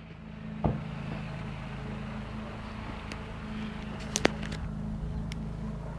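Car engine idling steadily, a low even hum, with a short knock under a second in and two quick clicks about four seconds in.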